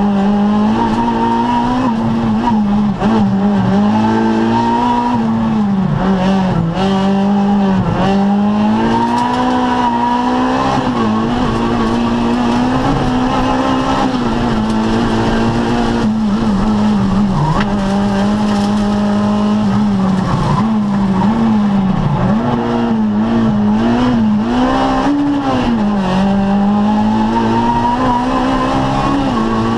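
Rally car engine heard from inside the cabin under hard driving, its revs climbing and dropping again and again with gear changes and corners.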